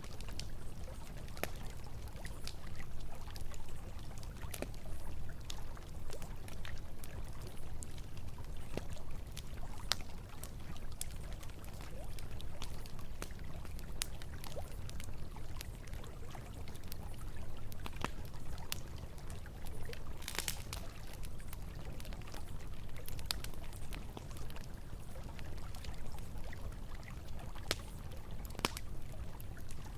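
Campfire crackling with scattered sharp pops over a low, steady rush of flowing river water; a short, denser burst of crackling comes about twenty seconds in.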